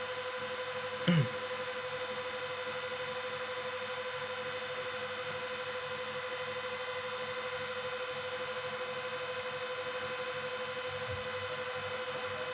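Steady electrical hum and whine with hiss from a home-built audio amplifier and speaker system switched on but not yet playing, with one short falling thump about a second in.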